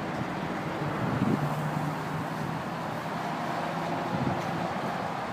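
Wind noise on the microphone over a low vehicle hum. A steady drone holds for a couple of seconds in the middle.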